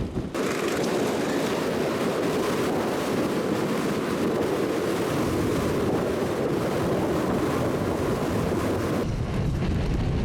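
Blizzard wind blowing hard over the microphone: a steady rush of noise, with its character changing abruptly just after the start and again near the end.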